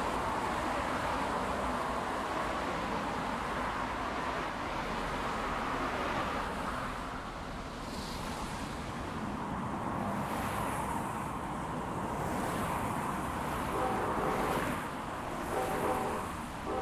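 Freight train rumbling steadily past, with wind noise on the microphone. Near the end, a couple of short pitched tones sound.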